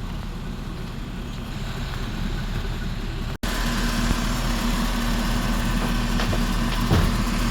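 Engine idling steadily. About halfway through, the sound breaks off for an instant and comes back louder, with a steady low drone.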